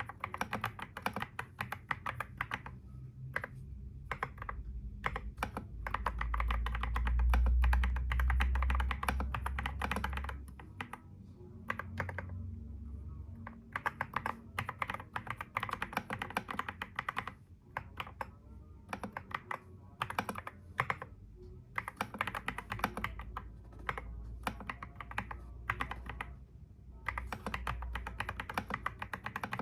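Typing on a computer keyboard: fast runs of key clicks broken by short pauses. A low rumble sits underneath, heaviest for a few seconds about a quarter of the way in and again near the end.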